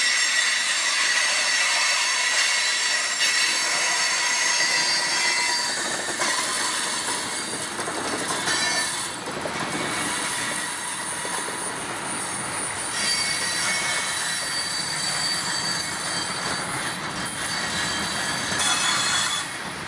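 Freight train cars rolling past at close range, steel wheels squealing on the rails with several steady high-pitched tones over the continuous rumble and rattle of the cars. The squeal is strongest for the first six seconds or so, then the rolling rumble takes over.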